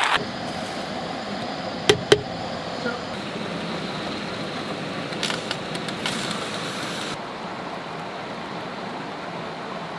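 Steady rush of flowing water from a river and waterfall, with two sharp clicks about two seconds in.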